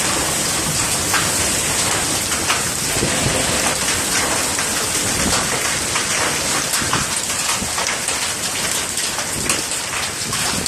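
Hail and heavy rain pelting down steadily: a dense hiss full of sharp ticks from hailstones striking.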